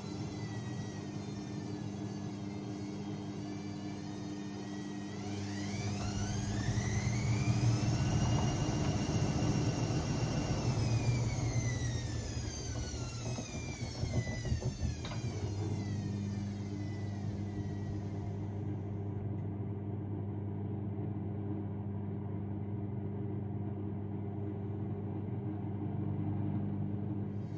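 AEG Lavamat 6610 washing machine's drum motor turning the drum: a whine rises, holds for a few seconds, slides back down and stops about halfway through, with a few knocks just before it stops. A steady low hum runs underneath.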